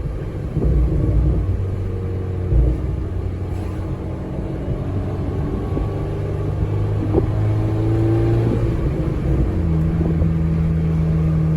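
Big-turbo VW Golf GTI Mk IV engine running under light throttle in everyday driving, heard from inside the cabin as a low steady rumble. Its pitch rises gently, then settles onto a new steady note a little before the end.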